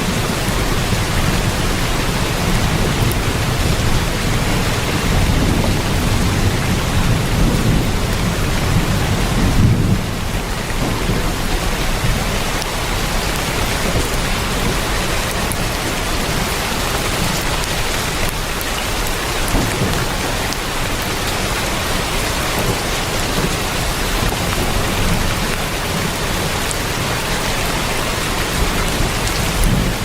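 Heavy rain drumming steadily on a tin roof, with a low rumble under it that eases about ten seconds in.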